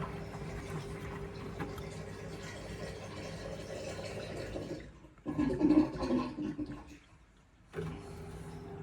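Indesit washing machine running mid-cycle, its motor humming steadily with water sloshing in the drum. About five seconds in the hum stops, a short louder rush of water follows, then a brief quiet before the machine starts up again.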